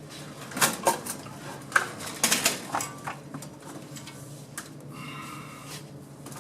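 A GM 700R4 automatic transmission being worked off a steel transmission jack, giving a string of sharp metal clanks and knocks in the first few seconds, then quieter shifting.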